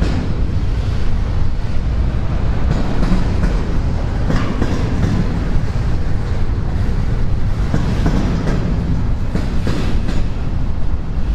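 Freight train cars rolling slowly past, wheels clacking over rail joints over a steady low rumble.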